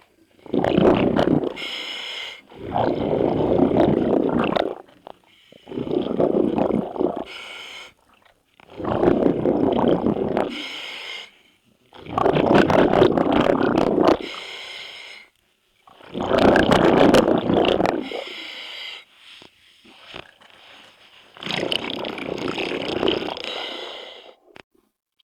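Scuba diver breathing through a regulator underwater: rushing breaths and bubbling exhalations, repeating every few seconds.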